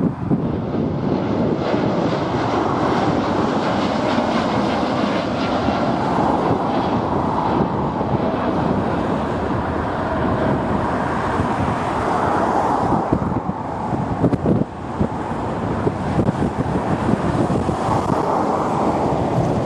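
Jet airliner taking off at full thrust: a continuous engine rumble and rush that swells and eases slowly, with wind buffeting the microphone.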